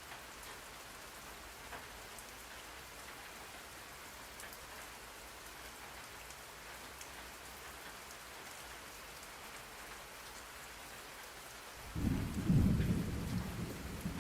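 Steady rain falling with an even hiss, then a loud low rumble of thunder breaking in near the end.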